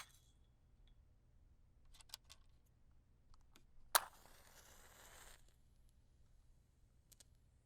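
A wooden match is struck about four seconds in with one sharp scrape, then flares with a hiss for about a second and a half. A few light clicks and taps come before and after it.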